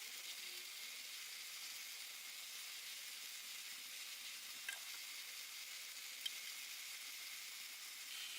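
Faint steady hiss with two brief light clicks, one a little past halfway and one about three-quarters through.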